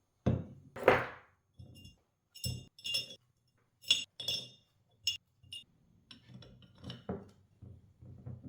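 Pieces of scrap copper clinking and knocking as they are handled, a series of separate metallic hits, several with a short high ring; the loudest knock comes about a second in.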